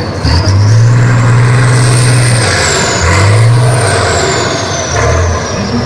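Competition truck's engine revving hard in three pushes, each easing off before the next, with a high whine rising and falling above it.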